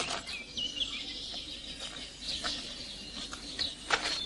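Birds chirping and calling, with short whistled notes and a brief gliding call about half a second in, and a couple of short clicks near the end.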